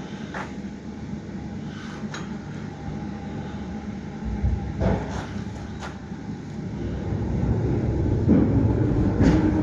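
Low mechanical rumble that grows louder from about seven seconds in, with a few clicks and a steady hum near the end.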